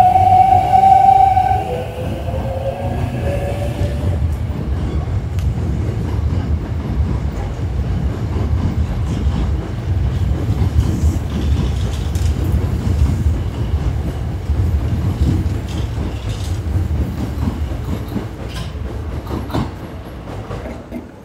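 Hankyu electric train moving along the platform at a terminal station. It makes a steady low rumble, with a few high, slightly wavering tones in the first three seconds, and it fades off near the end.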